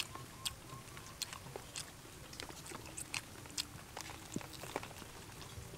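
Close-up crunching and chewing of crispy fried chicken wing, with sharp irregular crunches about two or three times a second.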